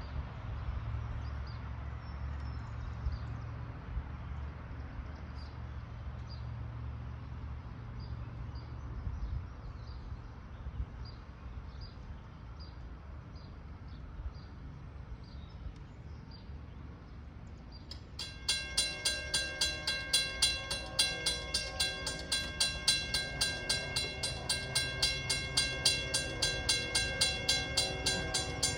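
A low steady rumble, then a railroad warning bell starts ringing about two-thirds of the way in. Its metallic dings come evenly, about two a second.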